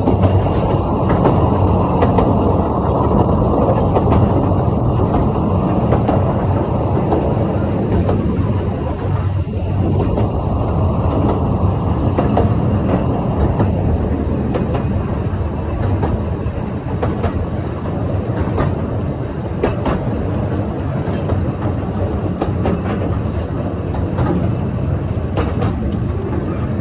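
Narrow-gauge train running downhill: a steady rumble of wheels on the rails with light clicking over the rail joints, a little quieter and duller after about fourteen seconds.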